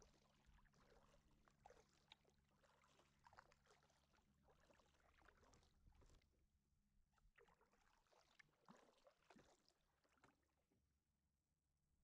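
Faint kayak paddling: the paddle blade dipping and pulling through the water with small irregular splashes and drips, easing off near the end. A steady low hum sits underneath.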